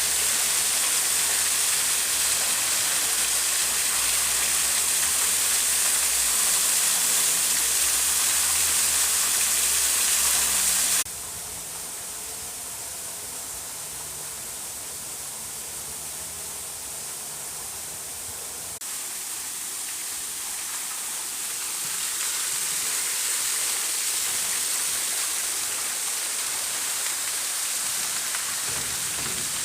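Steady rush of a natural waterfall. It cuts off abruptly about a third of the way in to a quieter, softer stretch of falling water, which grows louder again later on.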